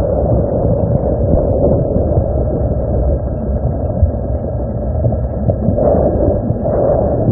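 Steady rumble of river water heard through a smartphone's microphone held under the water.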